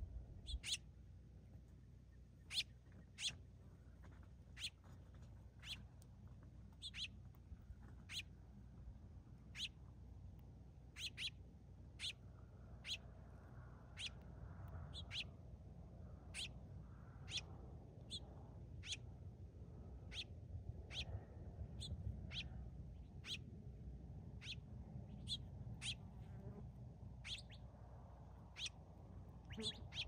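A bird giving short, sharp chirps, repeated roughly once a second and sometimes in pairs, over a faint low rumble.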